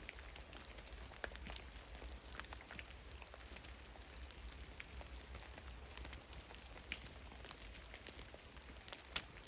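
Meltwater drops falling from snow-laden trees in a forest, landing at irregular intervals as scattered sharp taps over a faint steady hiss, with one louder drop near the end.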